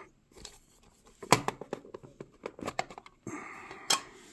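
Small plastic toy figures and their packaging being handled: a series of light clicks and taps, the sharpest about a second in, and a short rustle near the end.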